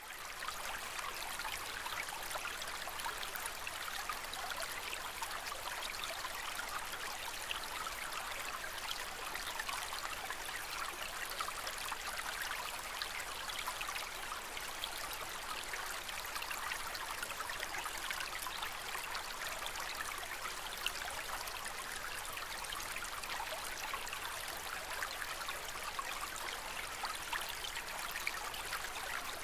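Steady trickling and splashing of water in a home aquarium, an even, unbroken sound.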